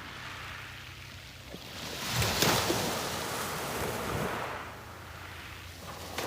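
Sea waves breaking on a beach, with one loud crash of surf about two seconds in and the wash swelling again and then fading toward the end.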